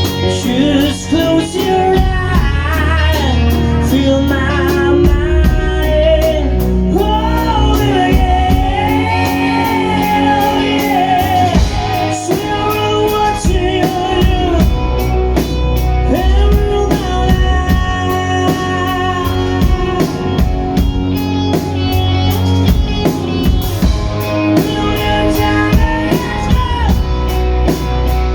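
Live rock band playing a slow rock song: drum kit, bass and guitars, with a wavering melodic lead line over them.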